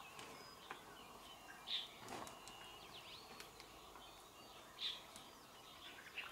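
Faint outdoor background with a few short bird chirps, about two seconds in and again about five seconds in, and thin whistled bird notes in the middle.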